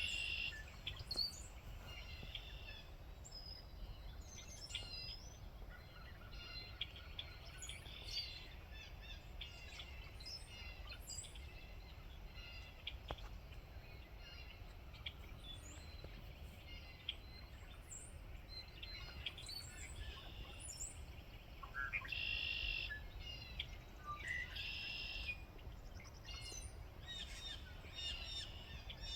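A flock of birds chirping and calling, many short overlapping chirps, with a few louder harsh calls about three quarters of the way through, over a steady low rumble.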